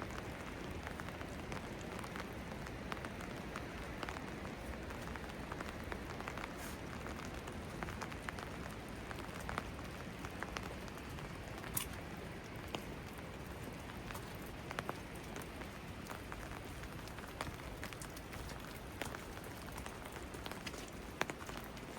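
Steady rain falling, with many irregular sharp drops and drips striking nearby surfaces.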